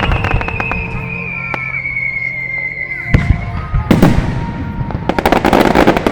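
Aerial fireworks bursting: a bang at the start, two more about three and four seconds in, then a rapid run of crackling pops near the end. A long whistle slowly falls in pitch over the first three seconds.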